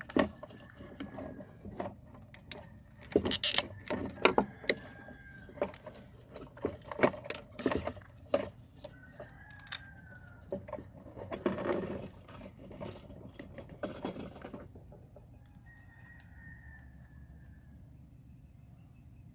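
Irregular clicks and knocks of hand tools and parts being handled during fuel pump work, stopping about fifteen seconds in. A rooster crows faintly in the background several times.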